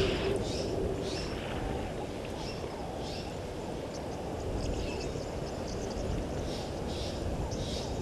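Birds giving short chirps now and then over a steady low rumble of outdoor background noise.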